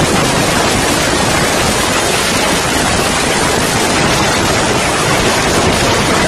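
Steady, loud wind rush over the microphone of a moving motorcycle, drowning out the engine.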